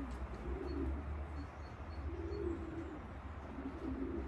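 Racing pigeons cooing: several wavering, low coos one after another, over a low rumble.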